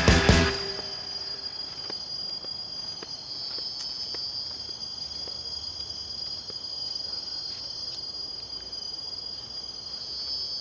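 Loud music cuts off about half a second in. Then a steady chorus of insects trills on one high pitch, swelling a little a few seconds in and again near the end.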